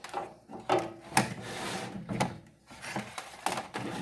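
Handling noises from fitting a multimeter test probe: several light knocks and clicks, with a short stretch of rubbing about a second in.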